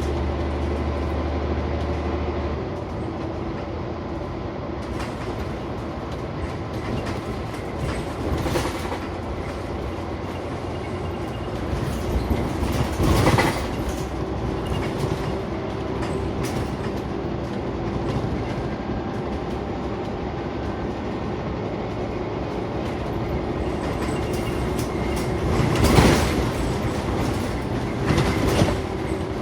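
Interior noise of a Scania CN94UB Omnicity single-decker bus on the move: a steady engine hum mixed with road noise. A low drone drops away a couple of seconds in, and occasional knocks and rattles come through, the loudest about halfway through and again near the end.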